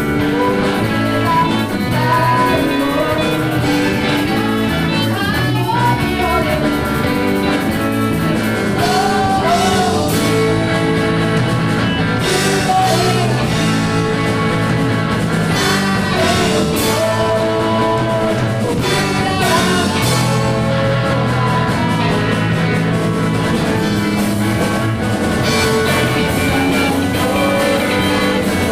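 A rock band playing: guitar and drum kit, with a melody line that bends in pitch, sung or played, over the top.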